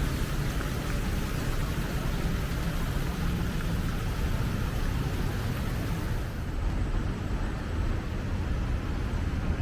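Steady city ambience: a low traffic rumble under an even hiss, the hiss turning duller about six seconds in.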